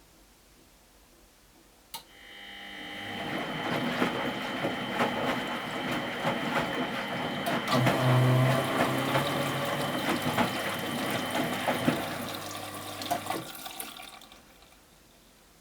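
Water rushing into or through a Miele Professional WS 5426 commercial washing machine, over a steady electrical hum. It starts with a click about two seconds in, builds, and dies away shortly before the end.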